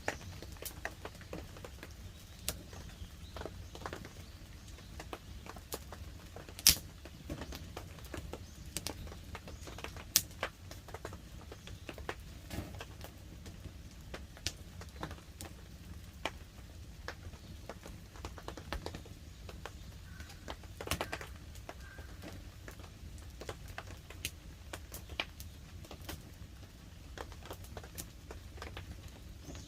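Wood campfire crackling, with irregular small pops throughout and two sharper, louder pops about seven and ten seconds in, over a steady low rumble.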